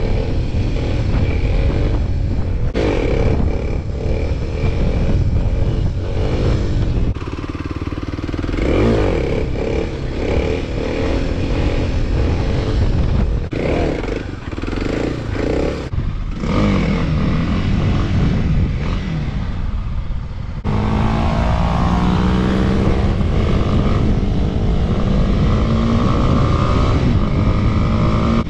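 Small 50cc dirt bike engine revving up and easing off over and over while the bike is ridden. About twenty seconds in, the sound changes suddenly to a steadier engine drone.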